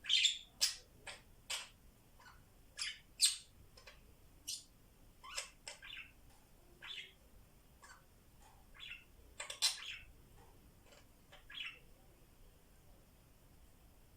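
Pet parrots chirping and squawking in short, sharp calls, scattered irregularly, loudest at the start and again about ten seconds in.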